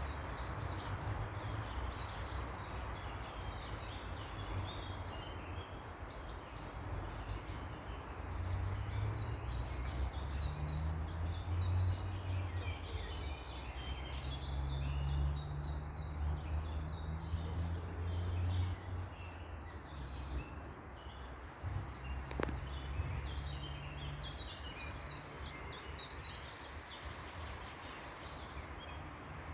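Many small birds chirping and singing in quick repeated notes over a steady outdoor background. A low rumble swells in about eight seconds in and dies away after about twenty-four seconds.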